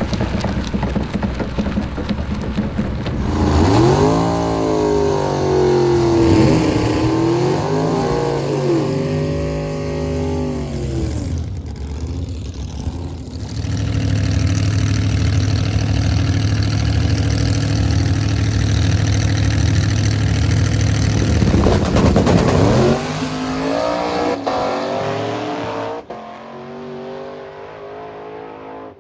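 Race car engines revving and accelerating on a drag strip, their pitch climbing and dropping several times, with a long steady engine drone in the middle. The sound fades near the end.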